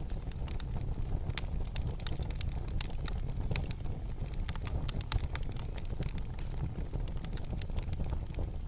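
Campfire crackling: irregular sharp pops and snaps of burning wood over a steady low rumble of flames.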